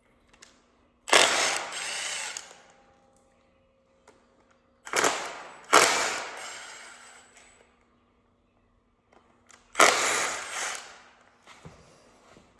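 A power tool running in four short bursts, each fading out over about a second, the middle two close together, as bolts are run out of an LS engine's timing cover.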